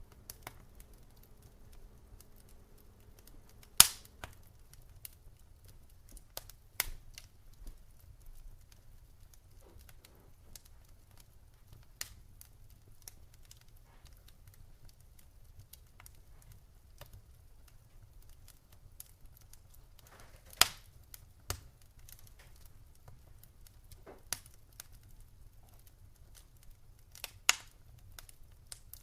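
Wood fire burning in a fireplace: sharp, irregular crackles and pops over a low rumble, with the loudest pops at about 4, 20 and 27 seconds. A faint low hum runs under the first four seconds and then stops.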